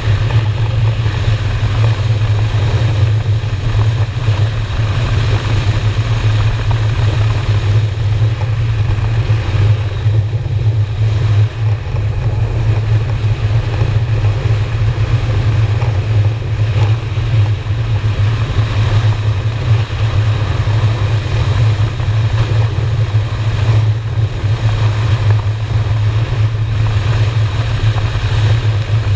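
Honda Shadow V-twin motorcycle engine running at a steady cruising speed, heard from the rider's position, with no marked revving or shifting.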